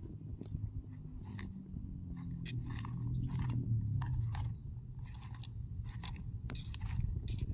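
Popcorn being chewed: irregular crunches, over a low rumble that swells in the middle.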